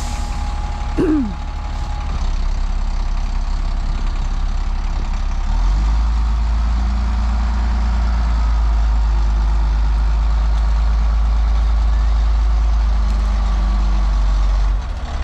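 Diesel engine of an off-road haul truck running, stepping up to a heavier, steady drone about five and a half seconds in and dropping back near the end.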